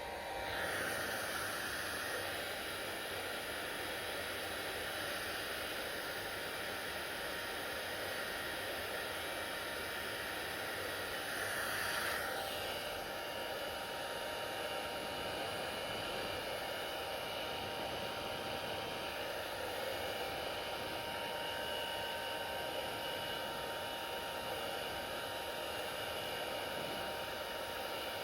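Hair dryer running steadily with an even rush of air and a faint motor whine. About twelve seconds in the sound briefly swells, then settles with a slightly changed, higher whine.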